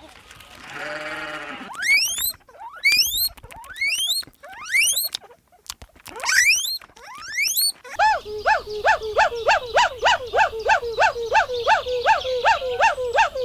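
Farm animal calls. A short bleat-like call comes first, then a few seconds of quick rising chirps. From about eight seconds in there is a fast, steady run of repeated calls, about four a second.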